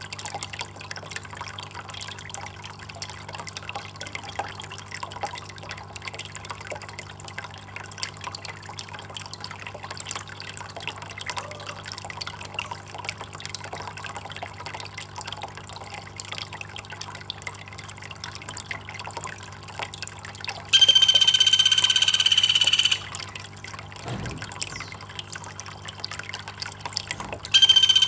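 Water trickling and dripping steadily. Twice near the end a loud, steady, high-pitched call with overtones cuts in, the first lasting about two seconds.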